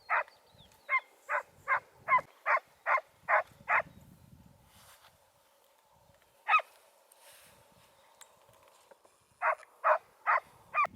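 Hunting dog barking in a quick, even series of short barks, about two and a half a second. It falls silent for a few seconds with a single bark in the middle, then starts barking again near the end.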